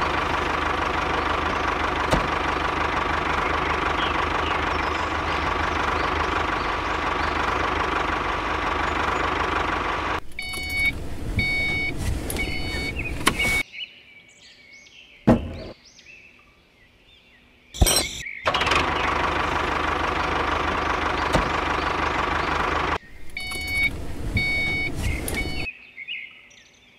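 Tractor engine running steadily for about ten seconds. It breaks off into a few seconds of short, evenly repeated high chirps and two sharp clicks, then runs again for about four seconds, followed by more of the chirps.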